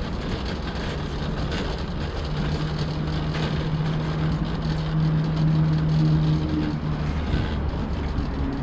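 Motor vehicle engine running nearby with a steady low hum, over general parking-lot traffic noise, with a few light knocks.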